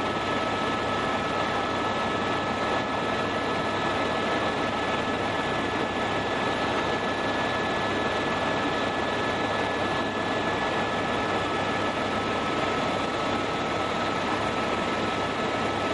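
Helicopter in steady flight: an even rush of rotor and engine noise with a steady high whine running through it, unchanging throughout.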